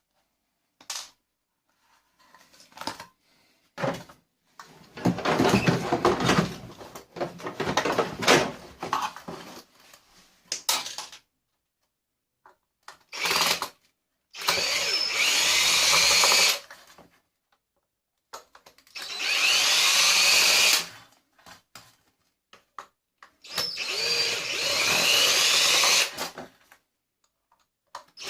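Power drill run in three separate bursts of a couple of seconds each, its whine rising in pitch as it spins up. Before these come a few clicks and an irregular rattling clatter.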